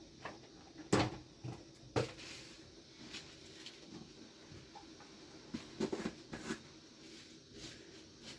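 Scattered knocks and clatter of objects being handled, the loudest about one and two seconds in, with a few more around six seconds.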